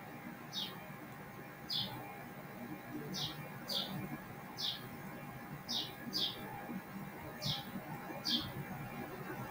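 A bird chirping repeatedly in the background: short, high chirps that fall in pitch, roughly one a second at an irregular pace, over faint steady room hum.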